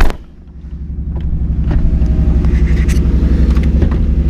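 A car door shuts with a sharp thump, then the 2008 Ford Mustang's 4.0 L V6, fitted with long-tube headers, idles steadily shortly after a cold start.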